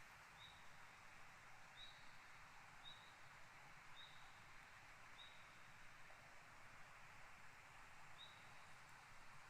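Faint, short, high chirps from a small animal, repeating about once a second with a pause of a few seconds in the middle, over quiet outdoor background hiss.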